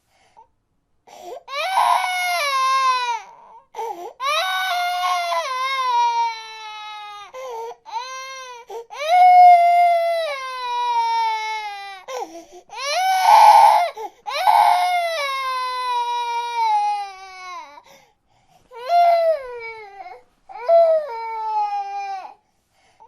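Infant crying: a run of loud wailing cries, each one to three seconds long and sliding down in pitch, with short catches of breath between them.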